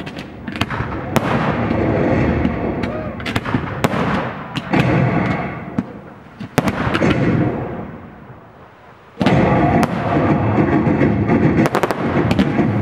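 Firework display: aerial shells banging one after another with crackling between them. The firing eases off briefly, then a dense, loud barrage of rapid bangs and crackle starts about nine seconds in.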